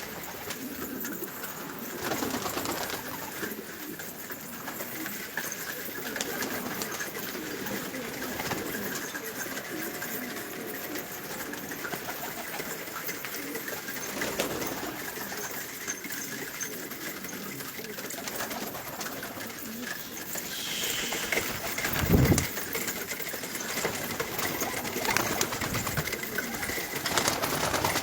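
Domestic pigeons cooing steadily, with one dull thump about two-thirds of the way through.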